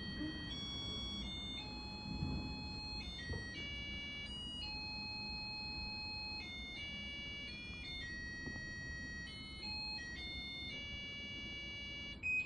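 A simple electronic tune of high beeping tones that step from note to note, over a low rumble. A short, louder beep comes near the end.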